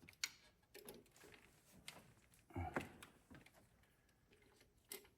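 Faint, irregular clicks and taps of hand tools and metal parts being handled, with a duller knock about two and a half seconds in, as a fuel injector line is refitted on a 5.9 Cummins diesel engine.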